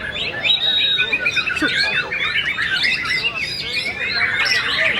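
White-rumped shama (murai batu, balak variety) singing vigorously, a dense unbroken run of fast whistles, chirps and trills.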